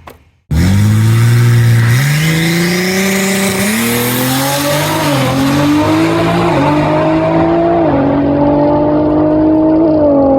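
Drag race car at full throttle down the strip, its engine note climbing in several steps with short dips as it shifts, and a high whine rising over the first few seconds.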